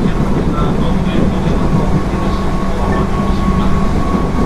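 JR 205 series 0 electric train running on the Nara Line, heard from inside the car. The wheels rumble steadily on the rail under a steady hum from the drive.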